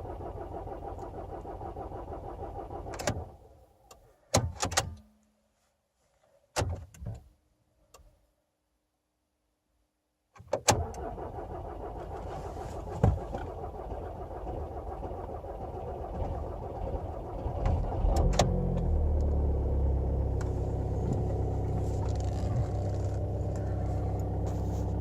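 VW Passat BMM 2.0 TDI diesel being cranked on the starter without catching. The cranking stops after about three seconds, followed by a few sharp clicks and a short quiet spell. Cranking resumes about ten seconds in, and about eight seconds later the engine catches and settles into a steady, deeper run: a hard start.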